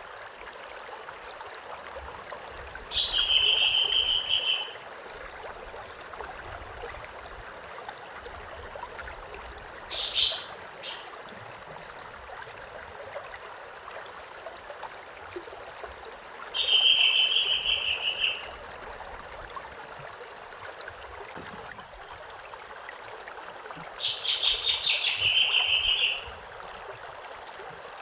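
A stream flowing steadily, with a bird repeating a loud trill about two seconds long three times, roughly seven seconds apart, and two short sharp calls about ten seconds in.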